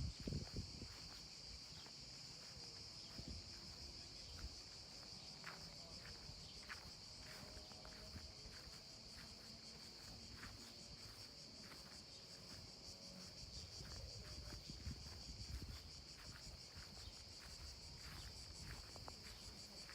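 A steady, high-pitched insect chorus, with faint scattered clicks.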